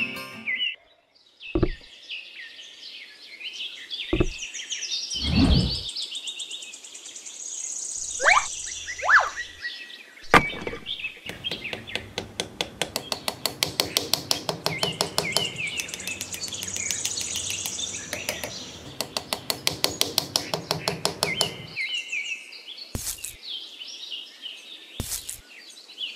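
Birds chirping throughout, with a few sharp knocks and taps in the first half and a fast, even run of ticks lasting about ten seconds in the middle.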